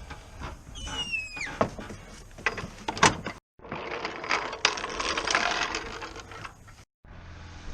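Mechanical clicking and knocking, with a brief squeal that falls in pitch about a second in. The sound cuts out abruptly twice.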